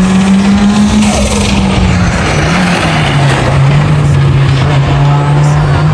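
Car engine running loud at high, fairly steady revs. Its pitch dips slightly partway through and then climbs again near the end.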